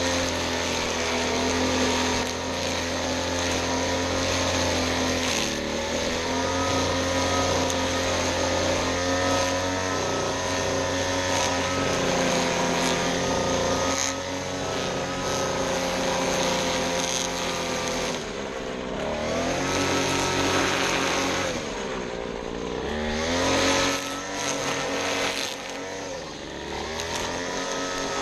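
Small gasoline engine of lawn equipment running at high throttle, its pitch dropping and climbing back twice in the second half as the throttle is eased off and opened up again.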